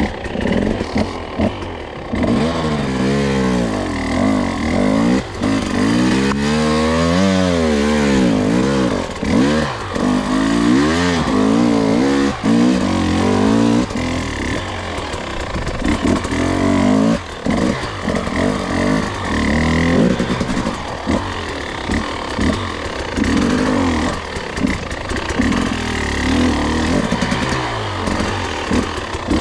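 Two-stroke enduro dirt bike engine under way on a trail, its revs rising and falling again and again as the throttle is worked.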